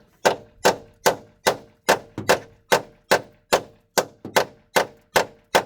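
Steel hammer striking an impact extension in a steady rhythm, about two and a half blows a second, each with a short metallic ring, driving a bolt-extractor socket onto a seized nut.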